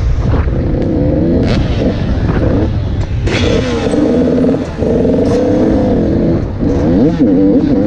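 KTM SX 85 two-stroke motocross bike engine being ridden hard, its pitch rising and falling again and again as the throttle is opened and closed, over a heavy low rumble.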